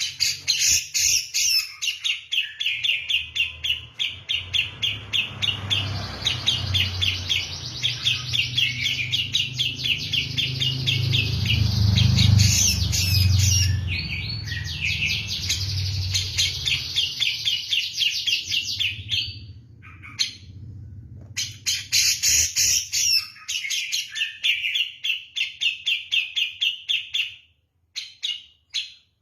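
Grey-cheeked bulbul (cucak jenggot) singing a long, insistent run of rapid repeated chattering notes, several a second, broken by a short pause about two-thirds through and again near the end. A low rumble runs underneath through the middle.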